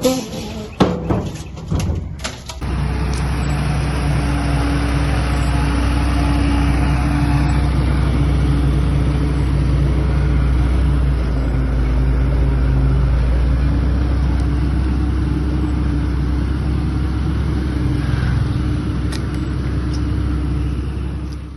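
A few sharp knocks and clatter in the first two seconds, then a heavy engine running steadily with a deep, even drone.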